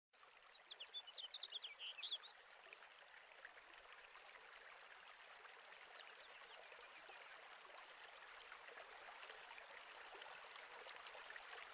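Faint outdoor ambience: a quick burst of bird chirps in the first two seconds, then a steady soft hiss that slowly grows.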